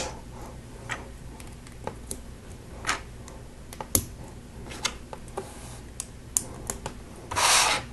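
Small plastic Lego pieces clicking and tapping as they are handled and pressed together, in scattered single clicks. Near the end comes a brief rustle lasting about half a second.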